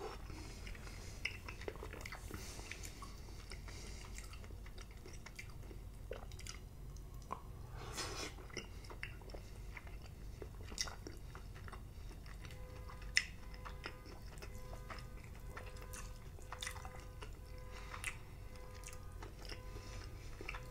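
Close-miked chewing of soft, slimy cooked spinach: wet mouth sounds with many small scattered clicks, one sharper click about two-thirds of the way through.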